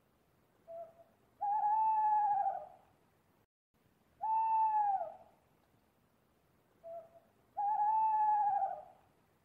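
Burrowing owl hooting: three long cooing hoots of about a second each, the first and last preceded by a short lower note, giving a two-part "coo-cooo" call.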